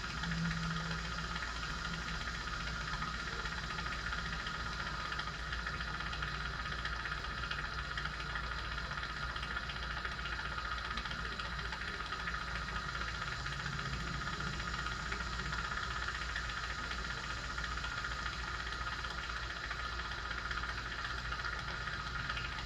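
Steady mechanical hum with a hiss, like a fan or motor running without change.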